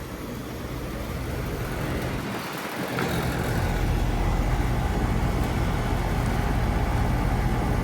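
3.5-ton heat pump outdoor unit running in cooling mode: the steady hum of the compressor and the whoosh of the condenser fan. It grows louder over the first few seconds, with the low hum rising sharply about three seconds in.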